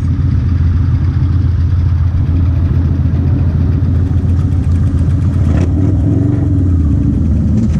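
Motorcycle engine running steadily under way, a low even drone.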